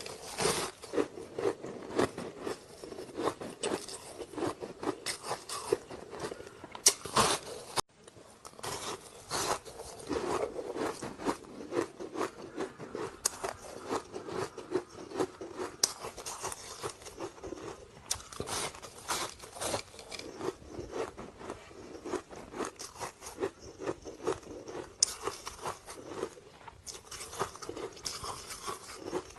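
Ice sticks being bitten and chewed, a dense run of sharp crunches and cracks, with a brief break about eight seconds in.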